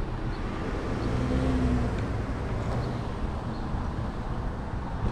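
Road traffic rumble, a little louder about a second in as a vehicle goes by.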